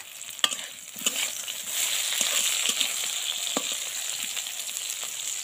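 Pieces of unripe seeded banana (bichekala) sizzling as they fry in oil in a metal kadai, the sizzle growing louder about two seconds in. A metal spatula turning them gives a few sharp clicks against the pan.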